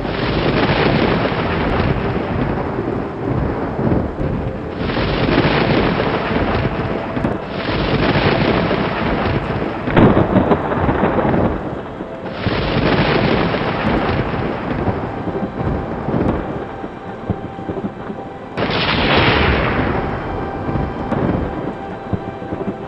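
Thunder rumbling in a run of about six rolls that each break in suddenly and die away, with a sharp crack about ten seconds in, over steady rain.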